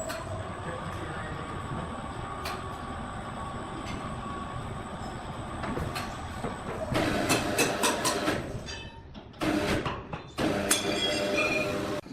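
Sawmill machinery running steadily, then clattering rapidly about seven seconds in, with two louder bursts near the end.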